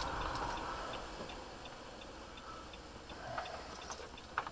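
Car turn-signal indicator ticking steadily, about two clicks a second, over a low hum of road and engine noise inside the cabin.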